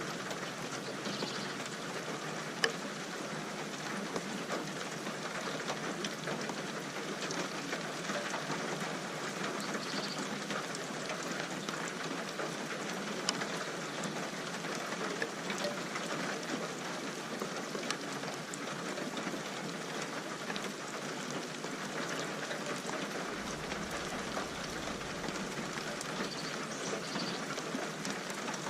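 Steady rain falling, an even hiss with scattered sharper drop hits, one of them standing out about three seconds in.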